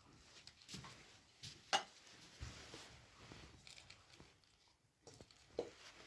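Faint, scattered clicks and knocks from small handling sounds in a small room, with one sharper knock about two seconds in and another near the end.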